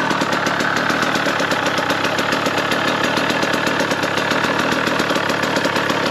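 KTM 150 single-cylinder two-stroke dirt bike engine running at a steady speed, a rapid even stream of firing pulses with no big rev changes.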